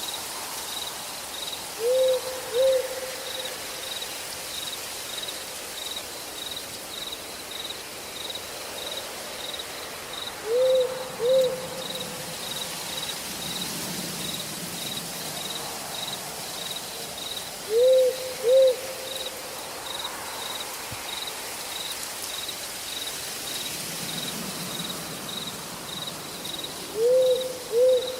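An owl hooting, a pair of short hoots about every eight seconds, four times in all, over an evenly pulsed high insect chirp and a steady background hiss.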